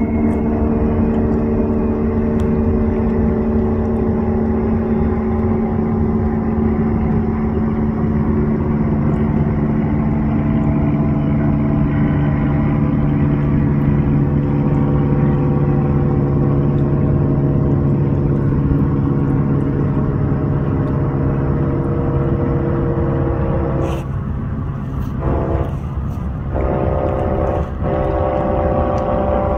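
Long double-stack container freight train rolling past across the lake: a steady, loud mechanical drone with a deep engine hum, whose pitch settles lower about eight seconds in.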